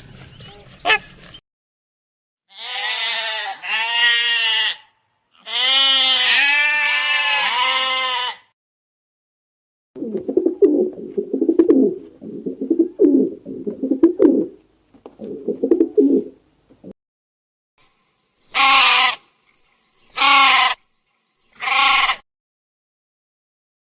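Sheep bleating: three long, wavering bleats, then several seconds of low, rapid stuttering calls, then three short bleats near the end.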